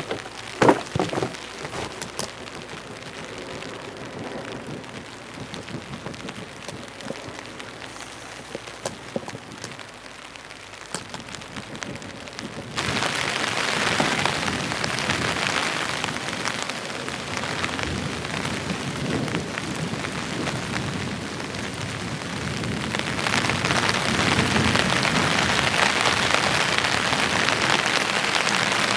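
Heavy rain falling steadily, with a few knocks in the first couple of seconds. The rain turns suddenly louder about thirteen seconds in and grows louder again about ten seconds later.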